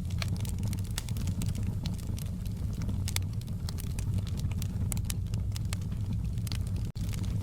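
Wood fire in a fireplace crackling, with many sharp pops and snaps over a steady low rumble. The sound cuts out for an instant near the end.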